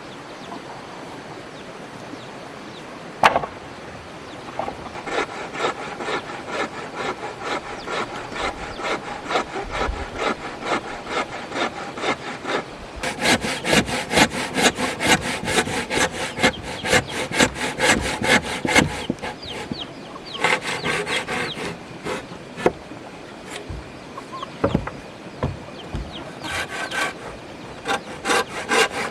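Hand saw cutting wood in quick back-and-forth strokes, with the blade ringing. The sawing starts a few seconds in and gets louder and faster about midway, then goes on in shorter bouts with pauses. There is a single sharp knock about three seconds in.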